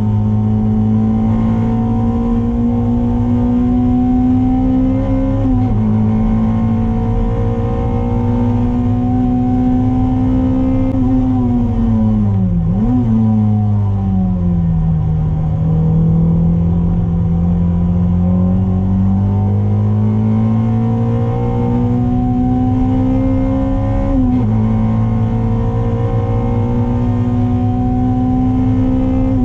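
Toyota MR2's 2ZZ-GE 1.8-litre four-cylinder engine, heard from inside the cabin, pulling hard at high revs on track. The pitch climbs steadily and dips briefly at gear changes about five seconds in and near the end. Around the middle the revs fall with quick blips as the car brakes and shifts down, then climb again out of the corner, over a steady low road drone.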